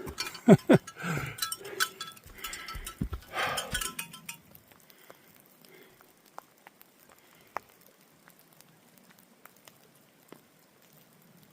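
Bear bells jingling on a walking hiker, with heavy handling thuds in the first few seconds. They then settle to faint, scattered clinks.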